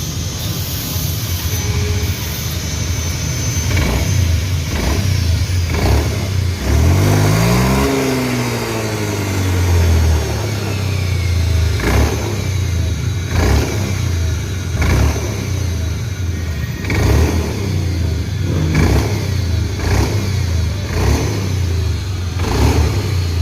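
Honda Beat FI scooter's single-cylinder engine and CVT running and being revved repeatedly, with one rev climbing steeply about seven seconds in. The run-up is a check for a whining noise from the CVT drive.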